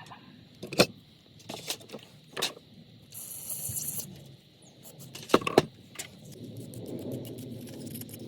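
Small metal parts and tools clinking and knocking in separate strikes, with a short hiss about three seconds in and a low steady noise near the end.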